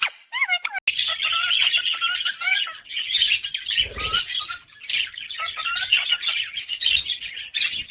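Pet parrots chirping and squawking. A few short whistled notes come first, then from about a second in many birds chatter at once, with a brief low thud about four seconds in.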